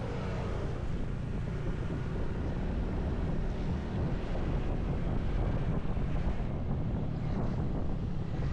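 Wind rushing over the microphone of a camera on a moving motorcycle: a steady, dull rush with road and engine noise blended underneath.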